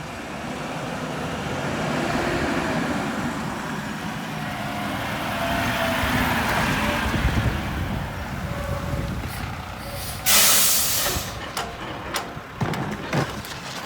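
Mack MRU rear-loader garbage truck running, its engine noise swelling in the middle. About ten seconds in there is a sudden loud hiss of compressed air from the air brakes, lasting about a second, followed by a few sharp knocks near the end.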